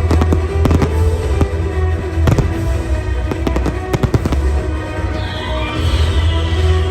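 Fireworks bursting in rapid, irregular bangs and crackles over loud music with a heavy bass. A falling whistle starts about five seconds in.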